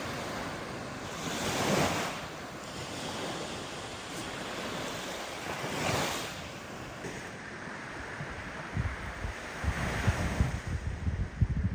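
Wind outdoors: a steady rushing with two louder swells about four seconds apart, and gusts buffeting the microphone in low thumps over the last few seconds.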